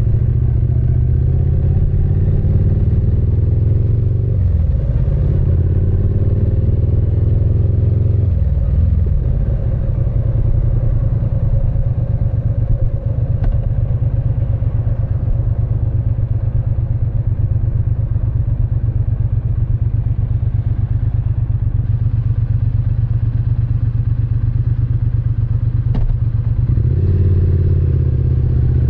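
Triumph Speed Twin 900's parallel-twin engine and exhaust, heard from the saddle. It revs up through a gear, shifts about four seconds in and pulls again, then drops to a low, even beat with distinct firing pulses for most of the stretch. It picks up and revs rising again near the end.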